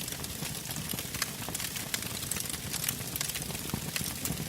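Wood fire crackling: irregular sharp snaps and pops over a steady low sound of the burning.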